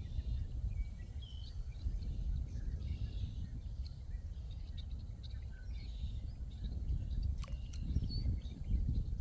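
Outdoor evening ambience: a steady low rumble with scattered short bird chirps and insect calls, and a few sharp clicks about three-quarters of the way through.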